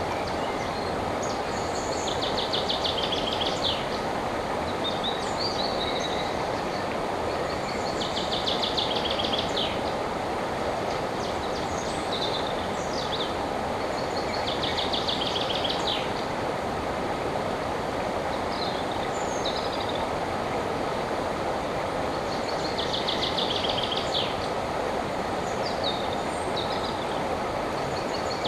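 River water rushing steadily, with a songbird repeating a short trilled song phrase about every six seconds and a few higher chirps in between.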